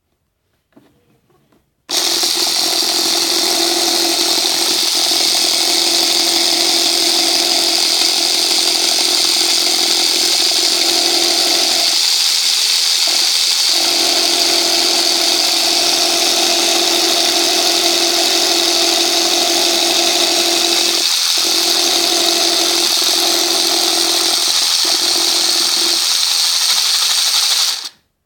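Lego Technic electric motor running at speed: a steady whirring hum with a strong high hiss. It switches on abruptly about two seconds in and cuts off near the end, faltering briefly a couple of times midway.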